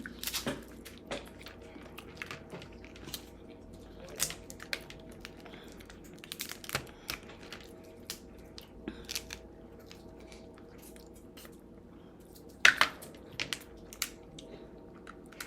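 Crab shells being cracked and picked apart by hand while eating: irregular sharp cracks and snaps with crinkling and chewing. A louder crack comes about three-quarters of the way through.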